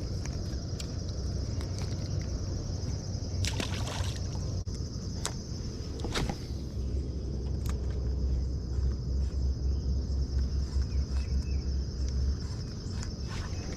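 Crickets trilling steadily over river water sloshing and trickling, with a low rumble that grows louder in the second half and scattered sharp clicks.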